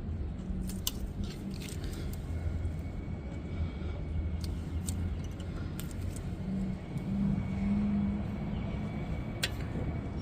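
Scattered light clicks and taps of hand tools on brake caliper parts, over a steady low rumble.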